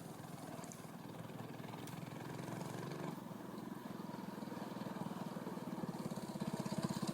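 Homemade minibike's 5.5 horsepower small engine running at a steady speed, growing louder as the bike approaches.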